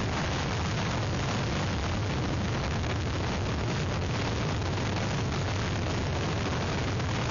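Hurricane winds blasting an outdoor webcam microphone: a loud, steady rushing wind noise with a heavy low rumble of buffeting.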